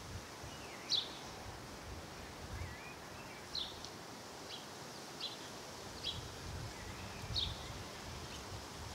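Outdoor ambience with birds: short, high chirps about seven times, some faint warbling between them, over a low, uneven rumble.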